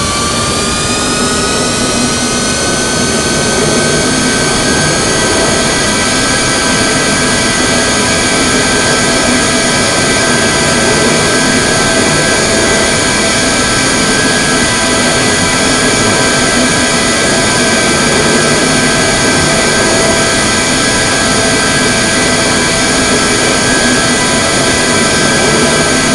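Airbus A321neo's Pratt & Whitney PW1100G geared turbofan engines spooling up to takeoff thrust: a layered whine rises in pitch over the first few seconds, then holds steady and loud.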